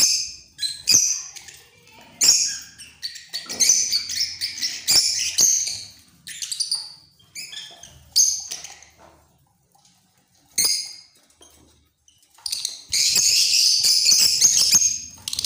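Birds calling in many short, shrill bursts, with a few sharp clicks between them and a dense stretch of continuous chatter near the end.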